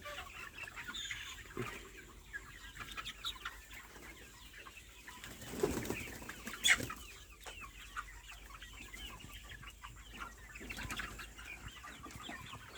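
A flock of 70-day-old chickens, mostly young cocks, clucking and calling continuously in a poultry shed, with a brief louder flurry of wing flapping about halfway through.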